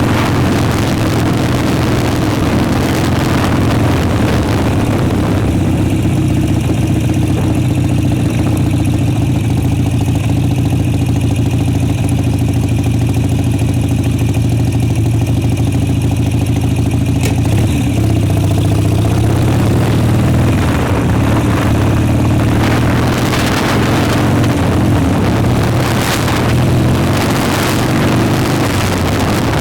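Motorcycle engine running steadily during a ride. Wind buffets the microphone near the start and again toward the end.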